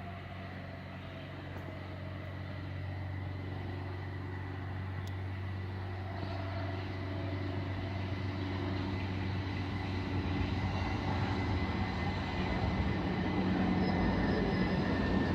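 Train approaching: a steady low hum with a faint high whine, its rumble growing gradually louder.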